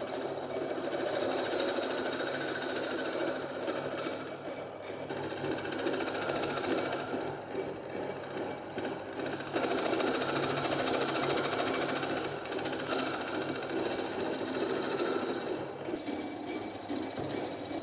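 Restored antique key cutting machine working metal: a rapid, continuous mechanical chatter that eases briefly about five seconds in and grows louder again near ten seconds in.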